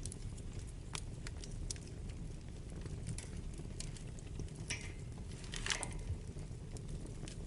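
Wood fire burning in a fireplace: a steady low rumble of flames with scattered sharp crackles and pops, and a louder hissing, sputtering pop about five and a half seconds in.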